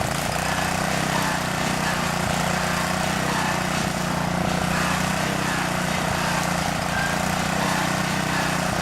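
Engine of digging equipment running steadily at a constant speed, with a steady rushing noise over it.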